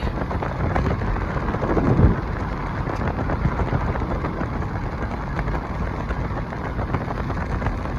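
Car in motion: a steady rumble of road and engine noise, with a louder bump about two seconds in.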